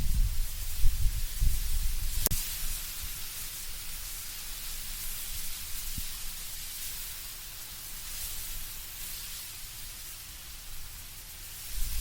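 Wind blowing through trees with a steady hiss of rustling leaves. A low, gusty rumble in the first couple of seconds fades away, then returns at the very end, and there is a single sharp click about two seconds in.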